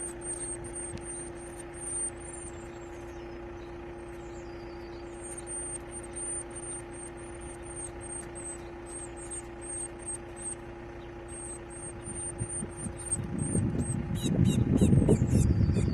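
Steady low engine hum, like an idling vehicle, under rapid high thin bird chirps. Loud rustling and knocking builds from about thirteen seconds in.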